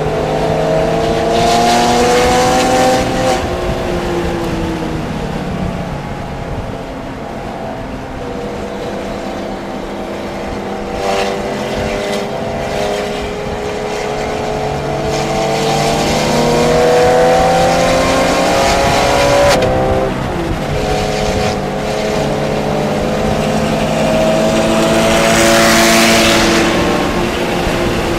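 Porsche engine heard from inside the car on a track lap, climbing in pitch under acceleration and dropping at each shift, with a sharp fall in pitch about two-thirds of the way through. A rush of wind and tyre noise swells near the end.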